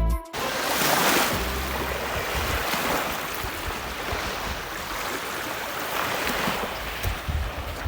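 Gentle Lake Huron waves washing onto a sand beach, a steady rushing that swells about a second in and again near the end, with wind rumbling on the microphone at times. A music track cuts off right at the start.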